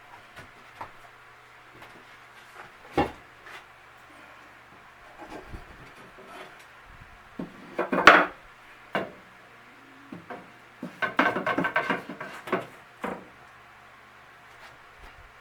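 Pieces of wood being handled and set down on a bench: a single knock about three seconds in, a louder clatter around eight seconds, and a quick run of rattling knocks a few seconds later.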